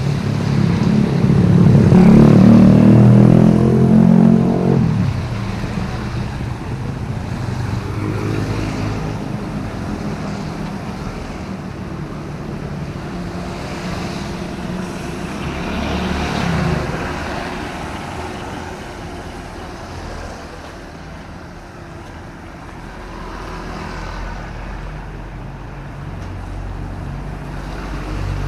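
Motor vehicles passing on a rain-wet city road: one engine goes by close about a second in and is the loudest, another passes with a rise and fall in pitch around the middle, over a steady background of traffic.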